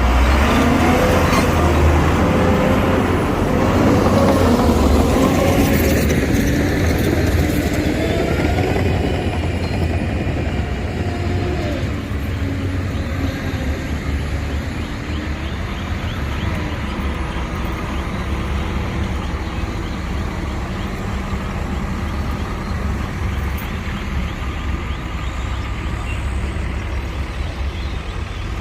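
Heavy diesel construction machinery running close by, its engine pitch rising and falling through the first ten seconds or so, then settling into a steadier low engine sound.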